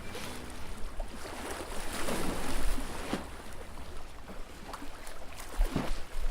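Outdoor harbour ambience: wind gusting on the microphone over water, with louder gusts about two and a half seconds in and near the end.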